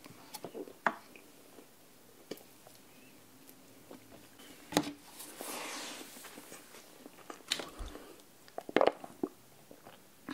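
Close-miked chewing of a chewy mouthful of food, with scattered sharp mouth clicks and smacks and a longer soft swell about five seconds in.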